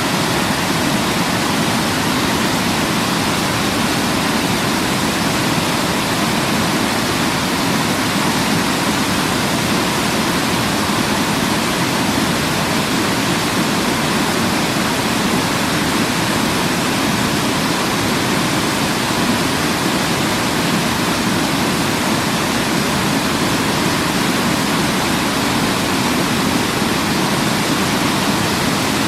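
Waterfall: a steady, continuous rush of falling water, even and unchanging.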